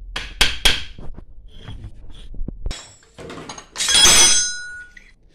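Three quick sharp metal knocks, like hammer blows seating parts on a water booster pump's shaft. About four seconds in, a loud metallic clatter with a ringing tail, as metal parts or tools are knocked or dropped.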